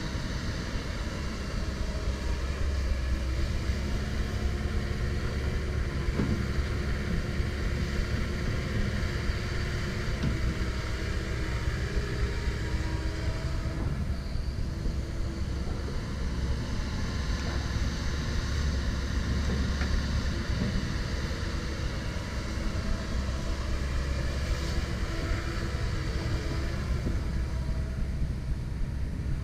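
Komatsu PC170LC-10 excavator's diesel engine running steadily with a deep rumble, with a few light knocks from the machine at work.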